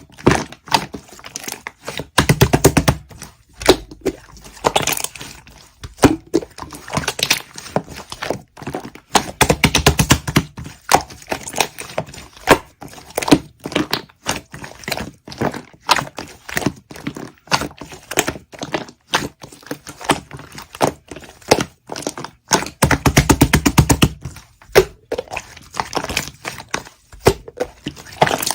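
Clay-mixed slime being squished and poked by hand: sticky clicks and pops from trapped air. Three times it thickens into a longer run of rapid crackling.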